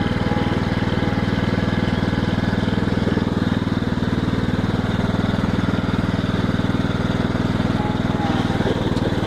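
Tractor engine running steadily at an even speed while the tractor is slowly maneuvered.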